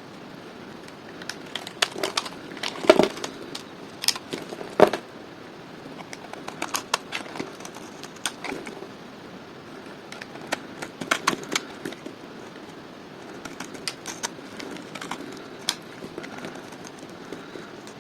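Dry bar soap being cut with a knife, crackling and crumbling in irregular runs of sharp clicks, the loudest cracks about three and five seconds in.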